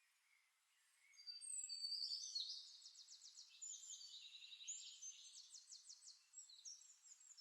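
Faint birdsong from a nature-sound recording: songbird whistles and rapid trills starting about a second in, over a light hiss.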